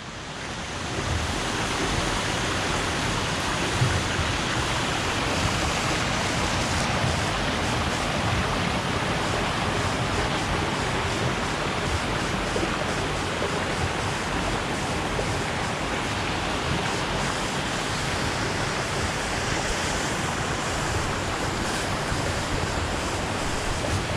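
Waterfall and creek water rushing steadily through a rocky gorge, a dense even roar that rises over the first second and then holds.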